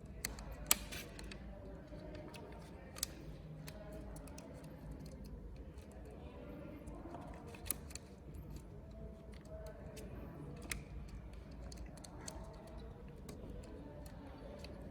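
Scattered clicks and light knocks of small metal parts being handled and fitted by hand, a few sharp ones standing out, over a steady low hum.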